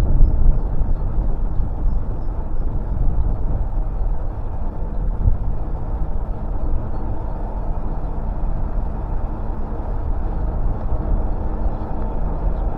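A train's steady low rumble, with a faint hum over it.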